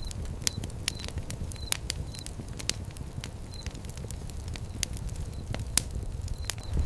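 Wood fire crackling: irregular sharp pops and snaps over a low, steady rumble of flames, with a few short, high chirps at the start and near the end.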